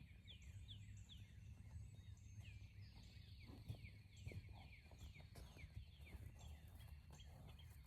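Faint bird chirping: a string of short, quick down-slurred notes, two or three a second, over a low steady background rumble, with a couple of soft knocks about midway.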